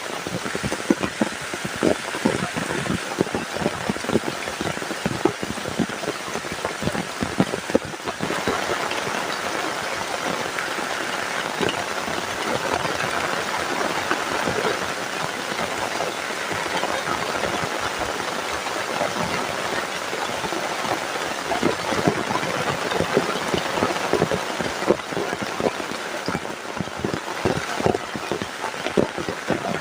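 Heavy rain falling, with many close, irregular drop strikes over a steady wash; the strikes ease into a smoother, steadier downpour for a stretch in the middle, then return.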